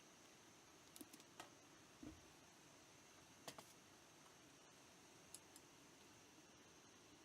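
Faint, scattered clicks and light taps, with a soft low thump about two seconds in, over a quiet steady hiss.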